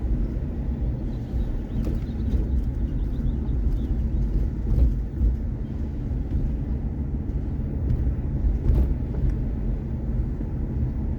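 Steady low rumble of a vehicle driving on the road, heard from inside the cab, with a few light rattles and clicks.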